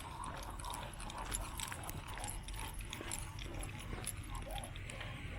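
A Great Pyrenees panting in a quick steady rhythm, with light clicks and jingles mixed in.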